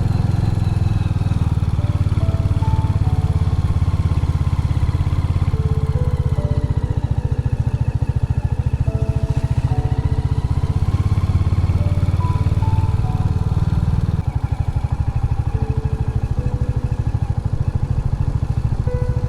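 Royal Enfield Hunter 350's single-cylinder engine running steadily while riding, its even firing pulses under background music with a soft melody. The engine's low rumble eases a little about fourteen seconds in.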